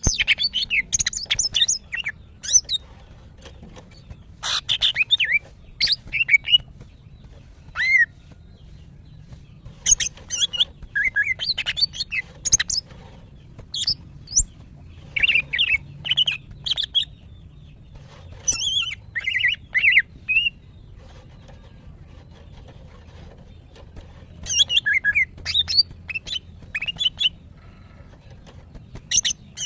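Female greater green leafbird (cucak ijo) calling in bursts of sharp chirps and quick whistled notes, with pauses of one to a few seconds between bursts. These are the calls of a female in breeding condition calling for a male.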